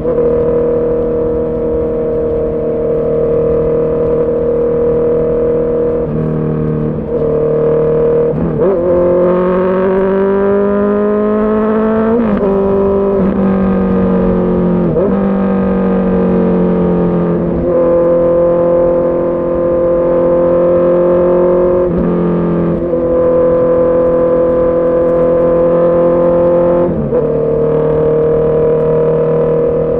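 Honda CB650R's inline-four engine running under way, mostly holding steady revs. About nine seconds in the revs climb for a few seconds under acceleration, then fall sharply at a gear change, and several more quick steps in pitch follow.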